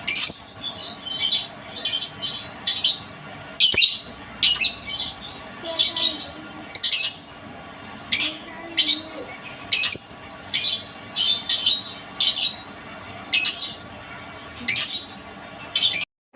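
Lovebird giving a series of short, shrill calls, about one or two a second, cut off suddenly near the end.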